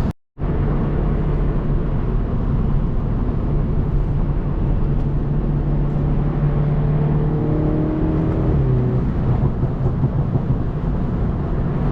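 Stage 2-tuned BMW 330i's turbocharged four-cylinder engine and tyres droning steadily as the car cruises on the highway. The sound cuts out for a split second just after the start.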